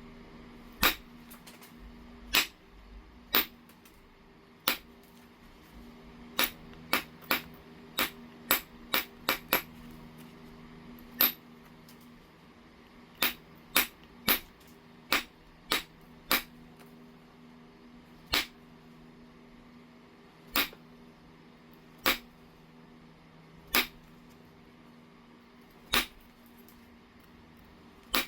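Heat-treated Oregon jasper being knapped: a series of about two dozen sharp clicks as the tool meets the stone and flakes come off. The clicks come at an irregular pace, with a quicker run of them a few seconds in. A faint steady hum lies underneath.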